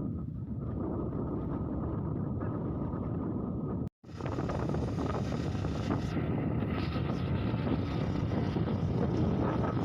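Motorcycle riding along a road, its engine running under wind rushing over the microphone. The sound cuts out for an instant about four seconds in and returns with more hiss.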